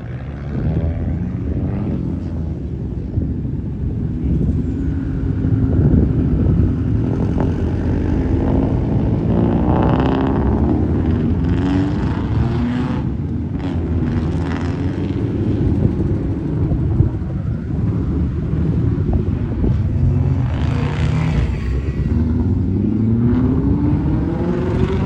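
Cars driving off one after another, a continuous engine rumble whose pitch rises several times as each car accelerates away.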